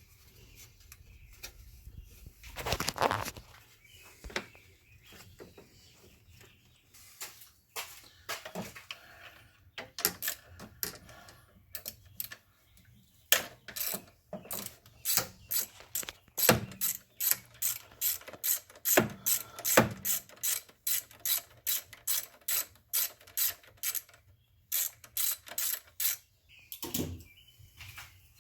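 Hand socket ratchet clicking as the bolt holding the alternator wiring harness is worked loose, with scattered handling clicks at first and then a long run of steady ratchet strokes at about two a second.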